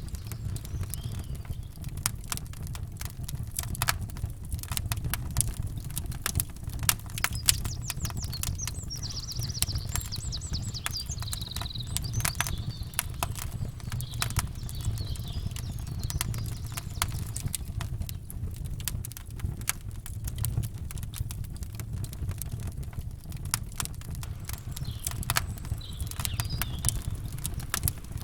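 Campfire crackling and popping in quick irregular snaps over a steady low rumble. A bird trills briefly about nine seconds in and chirps again near the end.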